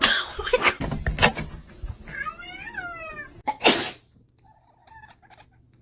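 A cat's wavering, drawn-out meow, followed by a short loud burst of noise, then a few faint short calls.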